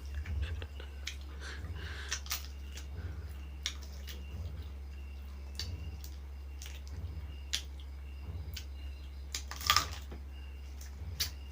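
Scattered short clicks and smacks, one every second or so with a louder cluster near the end, over a steady low electrical hum.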